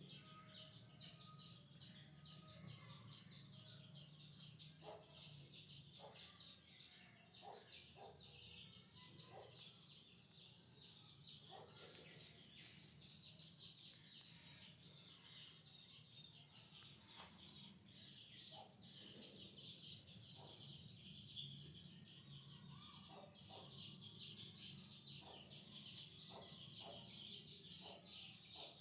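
Faint, continuous chirping of birds, many rapid high notes overlapping, over a steady low hum, with a few scattered short clicks.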